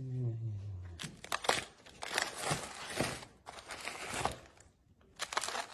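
Crinkling and rustling of packaging being handled, in irregular bursts for about three seconds and once more near the end.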